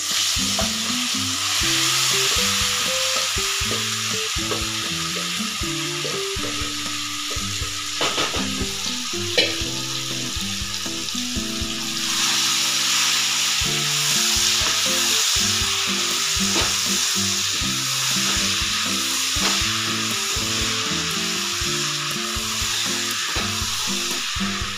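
Chopped raw green mango pieces sizzling steadily as they fry in hot mustard oil with spices in a kadai, stirred with a wooden spatula, with a couple of sharp knocks partway through.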